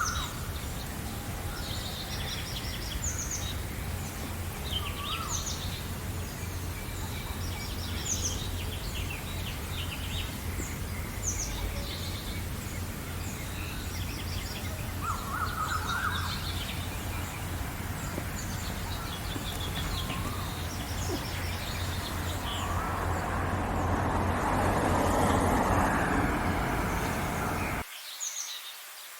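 Several songbirds chirping and trilling in short, overlapping phrases over a steady low rumble. Near the end a louder rushing noise swells for a few seconds, then the sound cuts off abruptly to quieter bird ambience.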